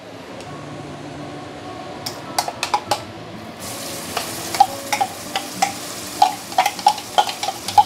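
Blended red chilli sambal paste going into hot oil in a nonstick wok and starting to sizzle about halfway through, with a spoon clinking and scraping as the paste is pushed out of a glass bowl.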